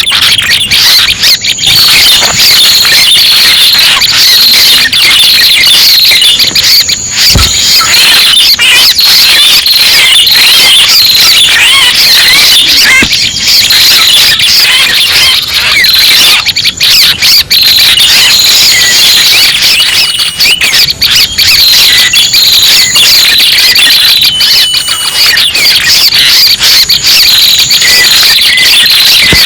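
Dense, unbroken, very loud high-pitched chirping and trilling of prenjak pala merah, a small warbler, used as a trapping lure call.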